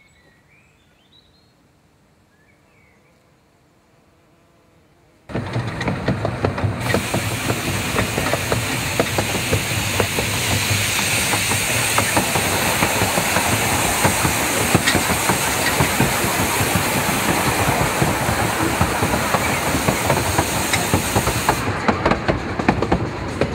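Faint chirps of birds in a quiet garden, then a sudden cut about five seconds in to the ride aboard a narrow-gauge steam train: a steady rumble with dense clicking and clatter of the carriage wheels on the track. A loud hiss runs over most of the ride and drops away near the end.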